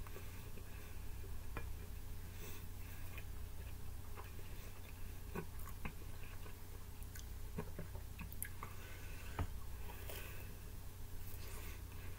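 A person chewing pizza with the mouth closed: soft, irregular mouth clicks scattered throughout, over a steady low hum.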